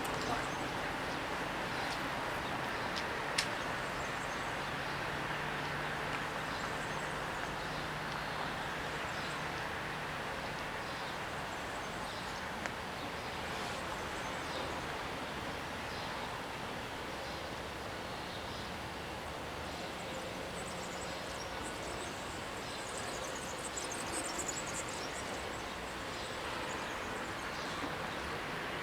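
Steady outdoor background noise, a general hum like distant traffic, with no train passing. There is a faint click a few seconds in, and a few faint high chirps, like birds, in the last third.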